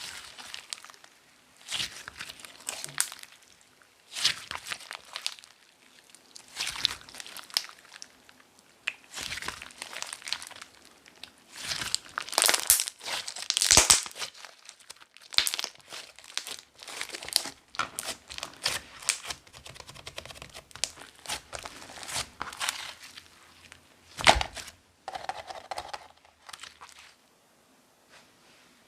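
Hands squeezing, stretching and folding a thick, chewy clear slime, giving irregular bursts of sticky crackling and popping, loudest about halfway through.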